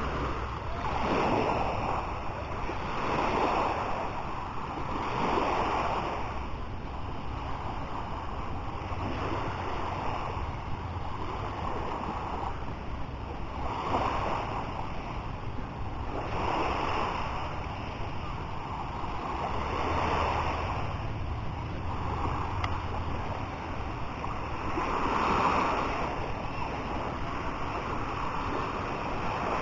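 Sea waves washing onto a beach, the surf rising and falling in swells every few seconds.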